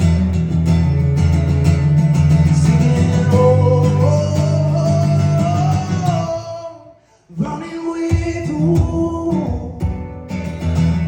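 Live music with guitar and a long held, wordless vocal note that slowly rises in pitch. The music drops out briefly just past halfway, then comes back in with guitar.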